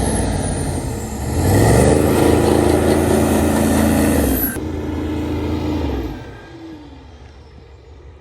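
Stub truck's engine revving hard as it accelerates on a jump run, its pitch climbing about a second in and then holding high. The note drops abruptly around four and a half seconds and fades away after about six.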